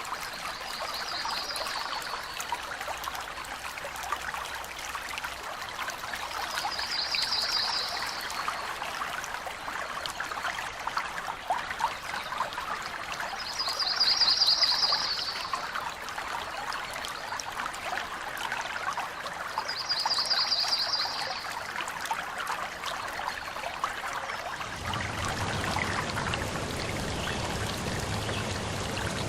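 Running water of a stream or brook, a steady trickling rush. A high, rapid trilled call sounds four times, each about a second long. Near the end the water sound shifts and a low hum joins in.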